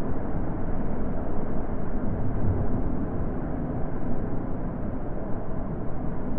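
Steady wind: a continuous, even rush with a deep low rumble, without gusts or breaks.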